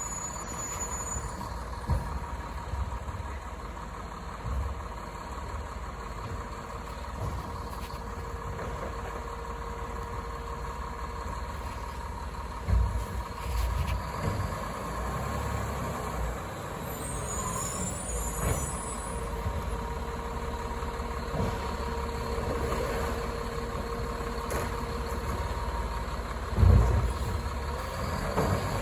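Labrie Automizer automated side-loader garbage truck running, its diesel engine and hydraulics giving a steady hum with a thin constant whine. A few heavy thumps stand out, the loudest about 13 seconds in and again near the end.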